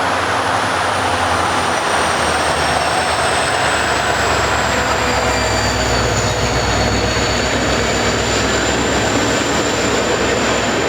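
Passenger train running past close by: a steady rumble of coaches on the rails with a thin, high squeal that slowly falls in pitch.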